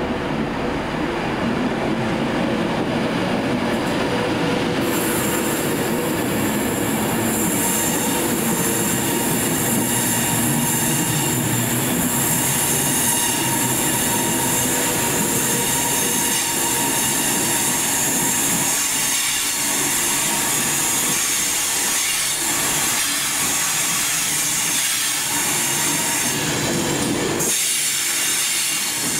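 A train running through the station at close range: steady running noise, with wheels squealing on the rails and a high hiss joining in about five seconds in.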